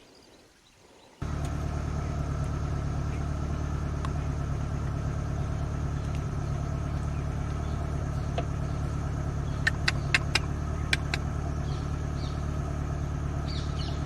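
Safari vehicle's engine running steadily, a low drone that starts abruptly about a second in. A few sharp clicks come about two-thirds of the way through.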